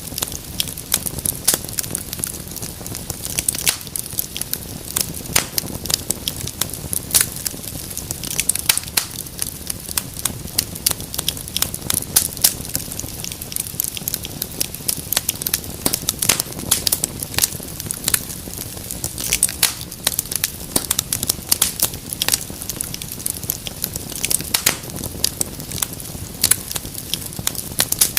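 Wood fire crackling in a fireplace: dense, irregular sharp pops and snaps over a steady low hiss and rumble of burning.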